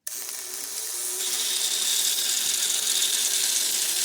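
Lionel postwar No. 400 Budd car's electric motor starting up and running steadily, a whirring gear hum with a hiss that builds over about the first second, a sign that the repaired power lead now brings it power.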